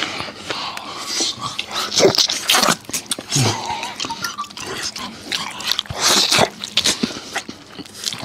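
Close-miked eating sounds of stewed donkey meat being gnawed off the bone: wet chewing, slurping and lip-smacking in irregular bursts, with no talk.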